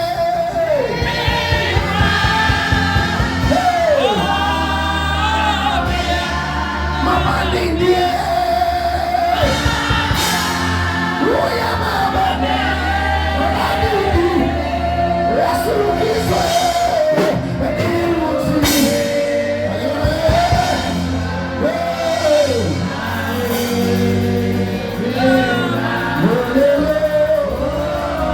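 Congregational gospel singing with band accompaniment: voices singing a hymn over a steady bass and drums.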